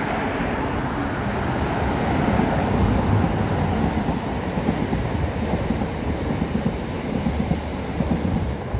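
Class 67-hauled Belmond British Pullman train rolling past: a steady rumble with rapid clattering of wheels over the rails, getting louder about two seconds in and falling away near the end.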